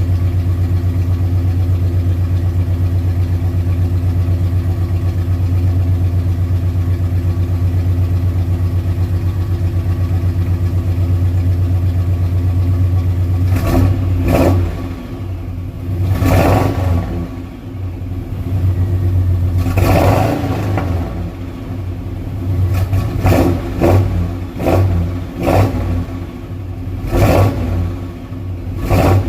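1968 Oldsmobile 442's 400 V8 running on a cold start, steady idle at first, then the throttle blipped repeatedly in the second half with several short revs; the owner calls the engine a little tired.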